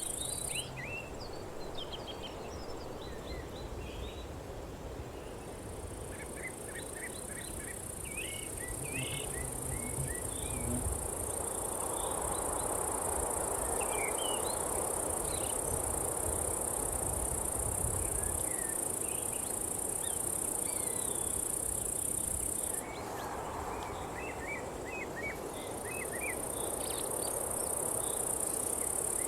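Nature ambience: a steady high-pitched chorus of crickets or similar insects, which cuts out briefly at the very start and again about two-thirds of the way through. Scattered short bird chirps and trills sit over a low, even rushing noise.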